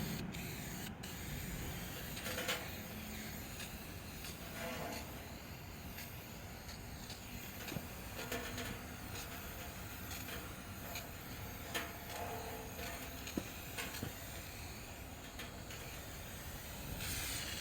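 Low, steady background noise with a few faint, scattered clicks and knocks.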